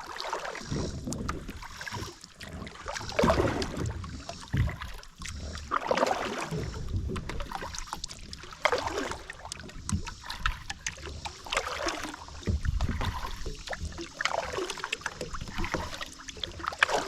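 Kayak paddle strokes dipping and pulling through lake water, splashing and swishing in an uneven rhythm every second or two, over a low wind rumble on the microphone.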